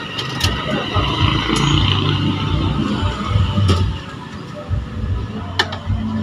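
A motor vehicle engine running with a steady low rumble, with a few sharp clicks over it.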